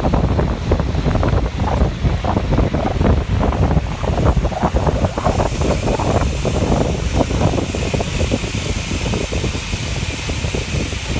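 Wind buffeting a camera microphone on a moving bicycle: a loud, gusty rumble.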